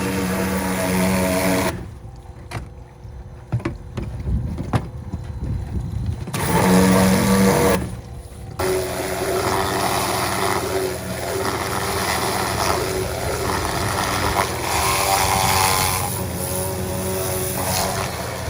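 The small twin-carburettor 360cc engine of a 1970 Mitsubishi Minica running steadily. Twice the steady note drops away with a few clicks, for about four seconds and then briefly.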